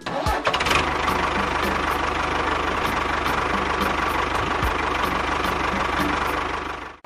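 Small engine running steadily at a constant speed, with a regular light ticking about three times a second.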